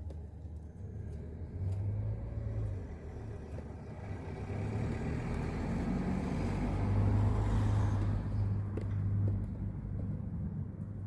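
A car driving past: a low rumble that swells to its loudest about two-thirds of the way through, then fades away.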